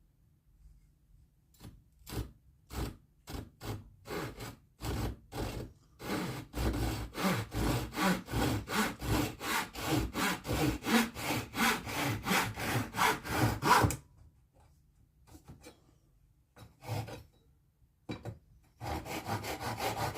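Hand saw cutting wood. It starts with a few slow, separate strokes, settles into a steady run of quicker strokes, stops, then starts sawing again near the end.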